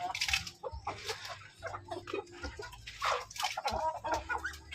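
Chickens clucking, with a few brief rustling noises in between.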